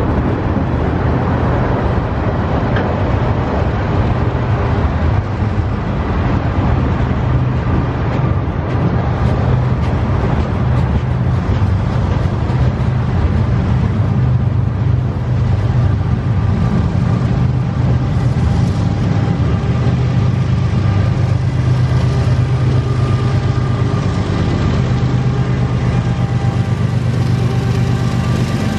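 Freight train cars rolling past with a steady rumble and clatter of wheels on the rails. From about halfway through, the steady drone of a diesel locomotive engine comes up under it.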